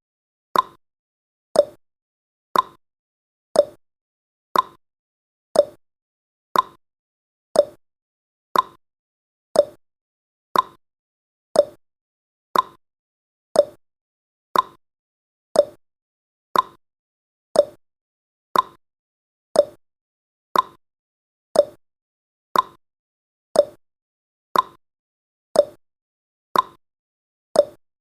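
Countdown timer's clock-tick sound effect: short, sharp ticks, about one a second, evenly spaced.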